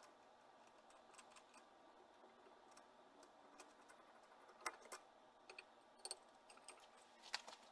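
Near silence with a handful of faint, unevenly spaced clicks and light taps in the second half.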